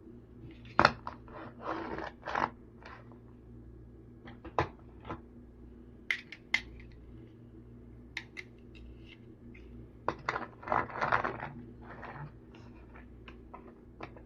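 Toy vehicles being handled, giving irregular sharp clicks and clattering, loudest about a second in and again about ten seconds in, over a faint steady low hum.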